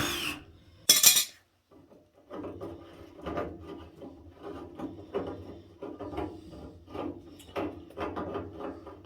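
A power drill winds down and stops, then gives one short burst about a second in. After that come irregular clattering, knocking and scraping of tools and metal parts being handled.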